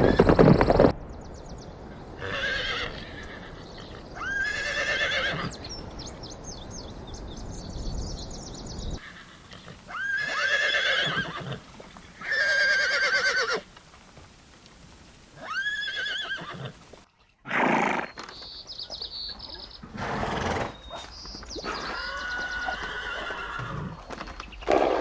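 Horses whinnying: about six separate neighs of around a second each, spaced through the stretch and taken from different recordings. A loud noisy burst in the first second is typical of hoofbeats.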